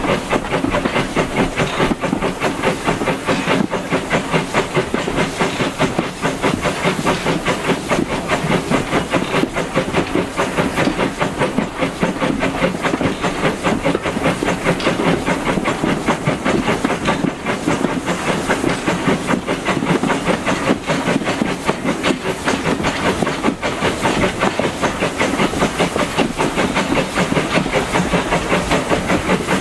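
A steam train on the move, hauled by an LB&SCR A1 'Terrier' 0-6-0 tank engine. The locomotive's steam hisses over the carriage running on the rails, in a fast, even rhythm that goes on without a break.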